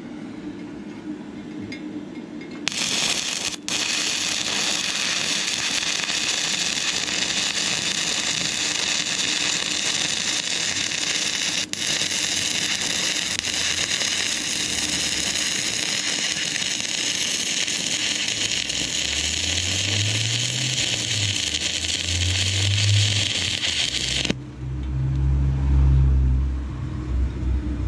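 Stick-welding arc crackling and sizzling steadily as a 6011 rod burns onto thin, rusty, painted metal, starting a few seconds in and cutting off suddenly about three seconds before the end. Low rumbling sounds come in during the second half and are loudest just after the arc stops.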